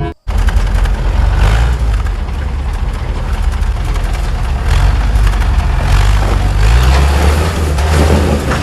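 Military jeep engine running with a loud, steady low rumble.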